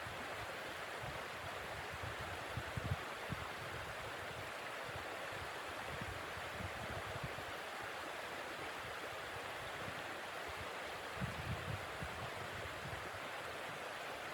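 Steady rushing blizzard wind, with gusts buffeting the microphone in low rumbles about three seconds in and again near eleven seconds.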